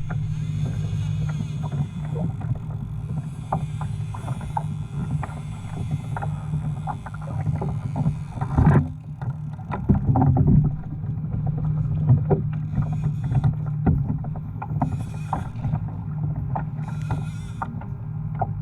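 Water sloshing against a fishing kayak's hull under a steady low rumble, with many irregular small knocks and clicks from the boat and its gear.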